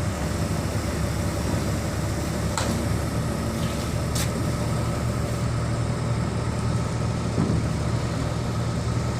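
A crane's heavy diesel engine running steadily with a low drone, with two sharp clicks about two and a half and four seconds in.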